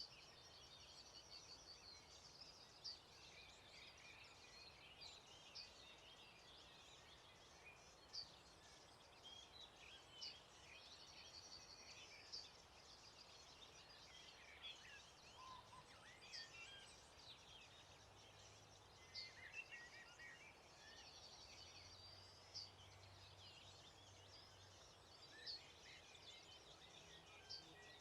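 Faint dawn chorus of several birds: many short chirps and sharp calls, with one bird repeating a high trill about every ten seconds, over a soft outdoor hiss.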